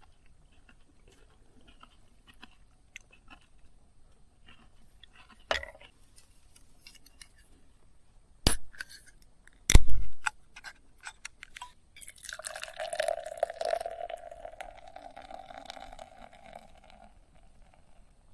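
Cooking at a pot of curry: small clicks and rustles of handling, three sharp knocks, then about five seconds of a liquid sound from the pot.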